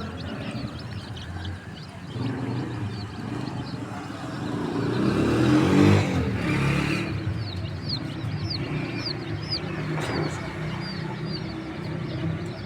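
Baby chicks peeping over and over, many short, high, falling chirps. A motor vehicle passes by, swelling up to its loudest about six seconds in and then fading away.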